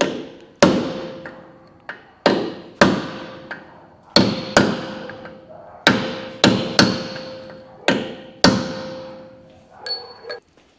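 Hammer tapping the steel nuts on a Toyota Hilux front hub, about a dozen sharp metallic strikes, often in pairs, each ringing briefly. The taps loosen the tapered collets seated behind the nuts so the nuts and collets can be removed.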